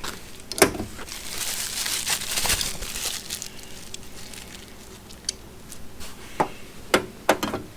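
Plastic parts bags crinkling and rustling as they are handled and opened, with a few sharp clicks of small hardware being set down, one about half a second in and a quick cluster near the end.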